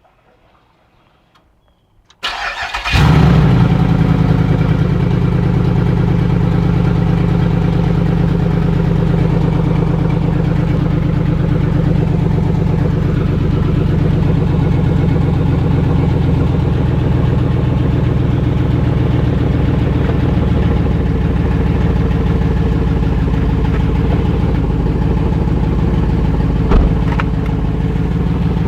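A 5.3 L LS4 V8 cranks about two seconds in, catches within a second and settles into a steady idle. Its exhaust leaves through a makeshift tailpipe silencer stuffed with steel wool. There is a single light knock near the end.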